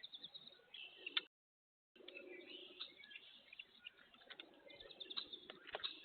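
Faint chirps of wild birds at a backyard feeder, with short clicks among them. The sound cuts out completely for about half a second a little over a second in.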